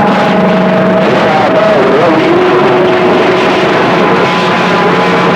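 CB radio receiver hissing with band static while no station is transmitting. Several steady whistles from other stations' carriers ride over the hiss, and one whistle wobbles and bends in pitch about two seconds in.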